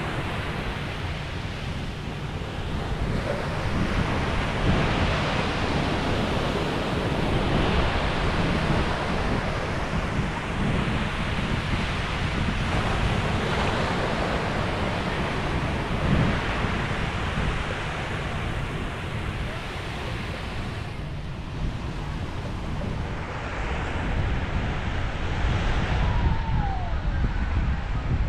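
Sea waves breaking and washing ashore, swelling and easing every few seconds, with wind rumbling on the microphone.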